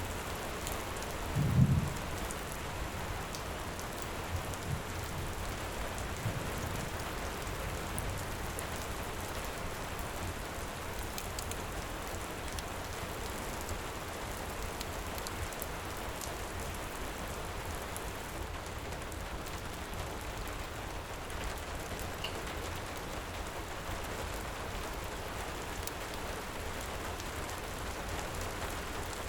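Heavy rain hissing steadily, with a short low rumble of thunder about a second and a half in and a few softer low rumbles after it. Faint crackles from a wood fire are scattered through it.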